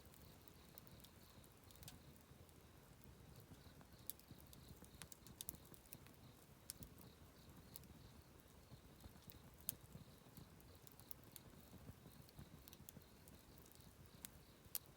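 Wood campfire crackling: sharp, irregular pops and snaps over a low hiss of burning, with a few louder pops. A faint, high chirp repeats steadily underneath.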